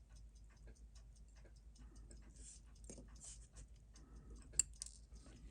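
Faint, irregular small clicks and taps of metal watchmaker's tools on watch parts, with one sharper click about four and a half seconds in.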